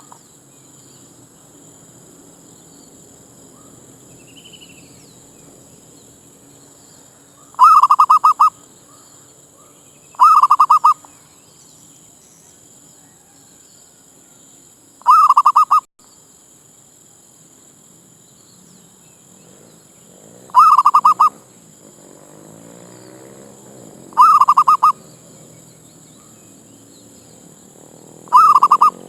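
Zebra dove cooing: six loud, short, rapidly stuttering coos, each under a second, repeated every few seconds.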